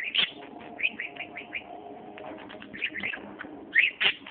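Pet bird chirping and chattering in rapid, short, high chirps that sweep up and down in pitch, with a cluster of louder chirps near the end.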